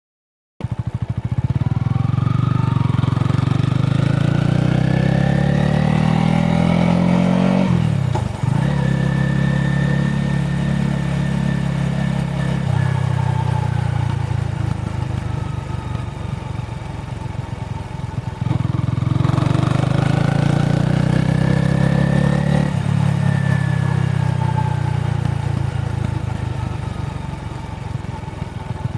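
Honda Rebel 250's single-cylinder engine and exhaust under way, pulling up through the revs, then settling into steady running after a sudden change near 8 s. It climbs in revs again about 19 s in, then eases off toward the end.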